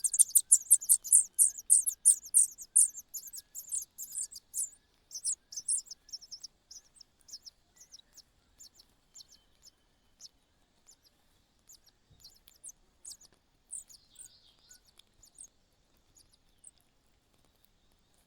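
Nestling begging calls: a fast run of thin, very high cheeps, several a second, dense at first and then thinning out and fading over the second half.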